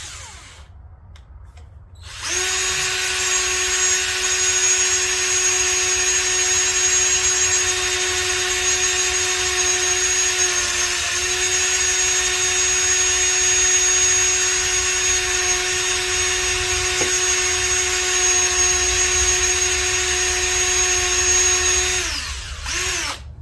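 Electric drill running steadily with a 1/4-inch bit, boring out a stripped water-pump bolt hole in a Honda B18 engine block so it can be tapped. It starts about two seconds in, dips briefly midway, stops near the end, then gives one short burst.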